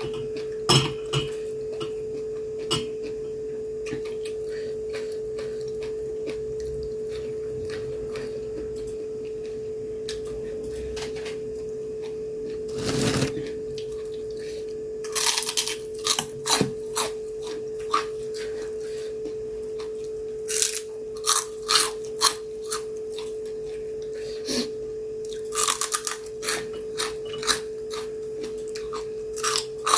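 Eating sounds: scattered short clicks and smacks of utensils and mouth, with a longer noisy slurp-like burst about a third of the way in, over a steady humming tone.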